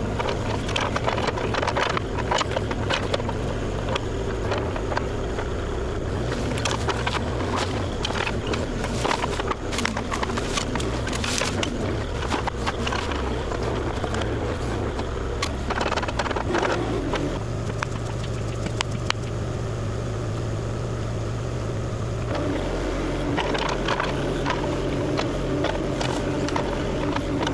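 Compact excavator's diesel engine running steadily, with scattered knocks, cracks and crunching as the machine works through brush and soil.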